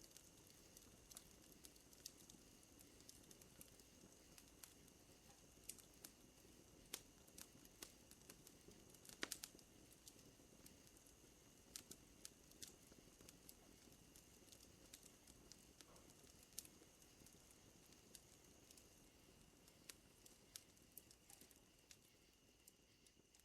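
Campfire crackling faintly, with irregular sharp pops, over a steady high-pitched drone of night insects that partly drops out near the end.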